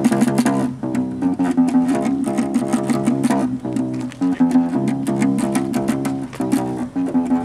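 Bass guitar played as a solo instrumental intro: quick, rhythmic plucked notes and chords.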